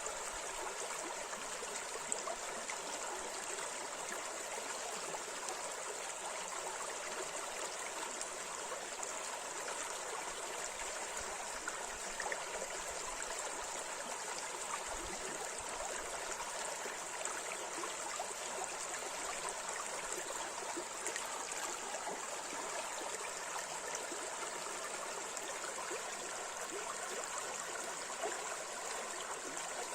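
River water running over riffles: a steady rushing with fine splashing and gurgling throughout.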